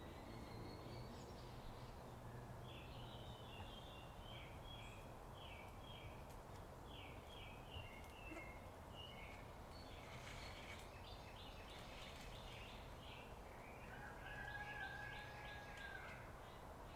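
Faint outdoor ambience: birds calling in repeated short, chattering notes, over a steady low hum of distant machinery. A steady tone lasting about two seconds comes in near the end.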